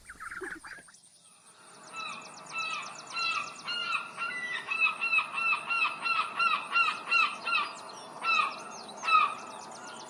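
Ducklings peep briefly. Then a flock of gulls calls over a steady background hiss: short rising-and-falling calls, about three a second, several birds overlapping.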